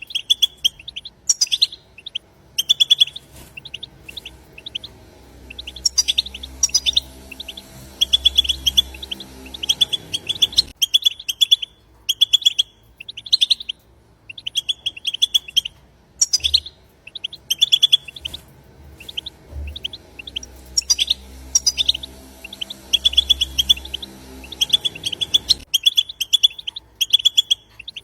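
European goldfinches twittering: short, rapid trilled call bursts repeating about once a second. A low hum runs underneath for several seconds at a time, twice.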